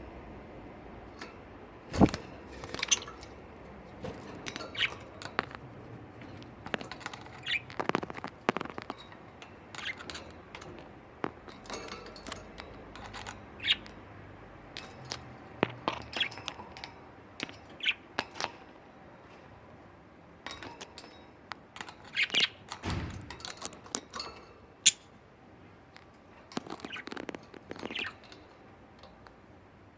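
Budgerigars chirping and chattering in short, scattered calls, with a sharp knock about two seconds in and a dull thump later on.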